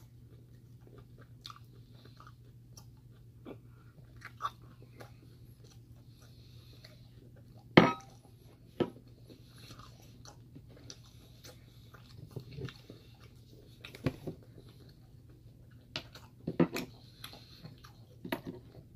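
A person chewing a mouthful of steak and potatoes, with scattered soft mouth clicks and smacks. A single sharp click about eight seconds in is the loudest sound, and there is a cluster of clicks near the end.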